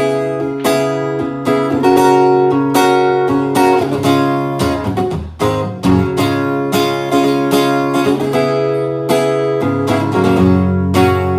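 Acoustic guitar strummed in a steady rhythm, playing an instrumental passage of a song with no singing.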